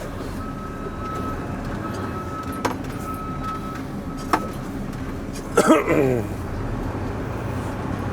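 Semi truck's engine running, heard from inside the cab, with a repeating electronic beep over the first four seconds or so and a few clicks. About five and a half seconds in, a short loud sound falls in pitch.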